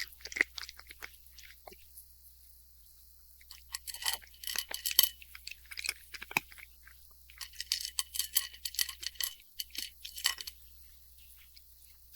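A cat crunching dry kibble: quick runs of crisp crunches in three spells, with short pauses between.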